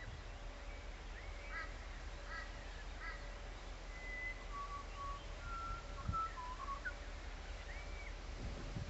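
Birds calling: three short calls about a second apart, then a run of short whistled notes, over a faint steady hum.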